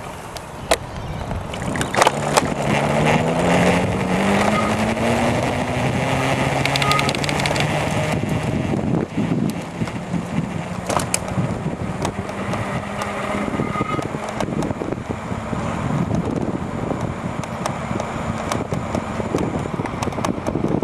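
Crystalyte 406 front hub motor on an electric bicycle whining as the bike accelerates: its pitch rises over several seconds, then holds steady. Tyre and wind noise run under it, with sharp knocks and rattles over bumps.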